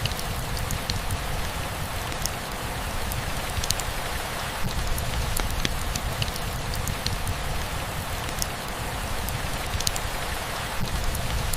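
Steady rainfall with a low rumble underneath and scattered sharp drips of individual drops.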